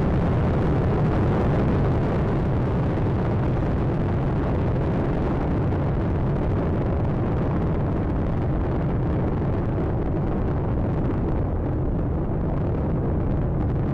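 Space Shuttle Atlantis's solid rocket boosters and three main engines firing during ascent: a steady, deep rocket noise with no break. The higher part thins a little after the middle.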